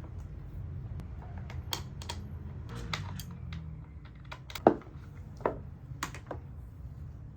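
Scattered light clicks and taps at an irregular pace, the loudest a sharp knock a little past halfway, over a steady low hum.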